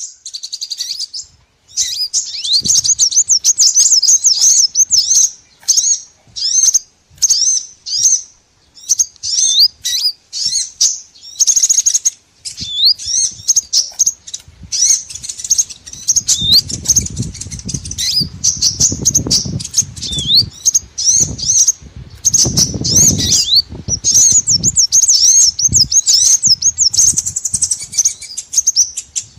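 Small birds chirping in fast, high-pitched runs of short chirps and quick rising notes, played as a bird-lure call track. A low rumble sits under the calls through the middle.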